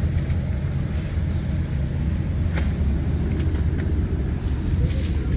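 Steady low engine and road rumble of a moving vehicle.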